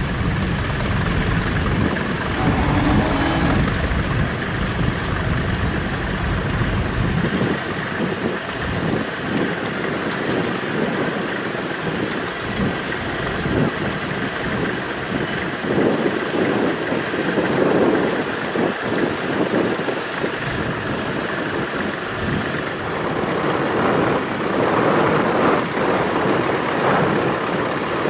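Tractor engine running, its low rumble strong for the first several seconds and then dropping away as it moves off, leaving a steady rushing background noise.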